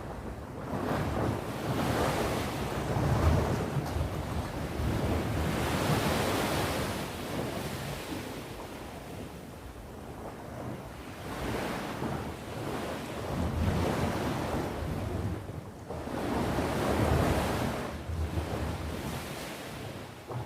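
Sea waves breaking and washing onto the shore, the surf swelling and easing every three to five seconds, over a low rumble.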